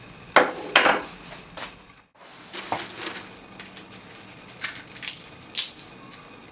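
A string of short, sharp clinks and knocks of hard objects being handled, loudest twice near the start, with a brief drop-out about two seconds in.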